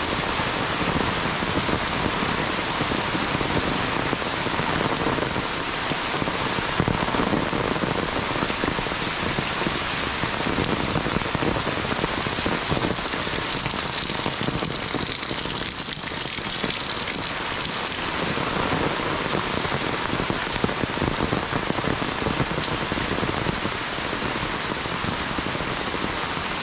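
Heavy monsoon rain falling steadily, a dense, even patter of drops.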